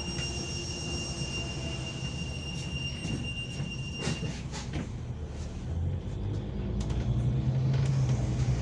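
Hong Kong MTR train rumbling steadily, with a thin steady high tone that stops about four seconds in and a few sharp knocks soon after. The rumble grows louder near the end.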